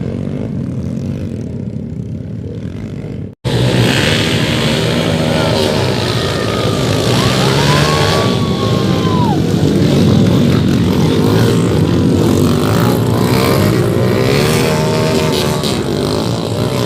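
Motocross motorcycle engines running, broken by an abrupt cut about three and a half seconds in, after which the engine sound is louder and wavers in pitch as they rev.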